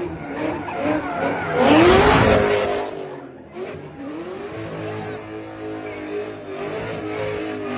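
Drift car's engine revving up and down, with a loud rush of tyre skid noise about two seconds in, then the revs climb and hold high as the car drives on.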